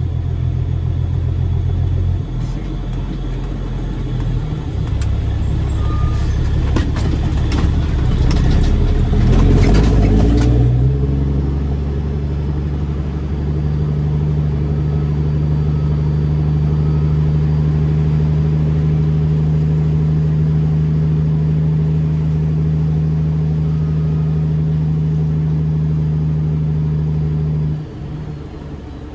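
Straight-piped Caterpillar C13 diesel in a Kenworth W900B dump truck, running on the road. Its steady note steps to new pitches a few times, with a stretch of rattling and knocking in the first third, and the engine sound drops away suddenly near the end.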